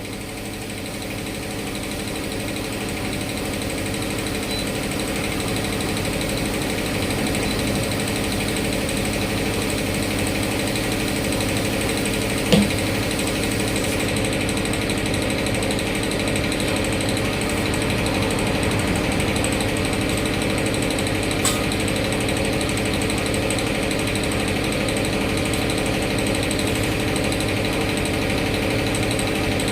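A motor or engine running steadily, building up over the first several seconds and then holding level. A sharp knock comes about twelve seconds in and a fainter click about twenty-one seconds in.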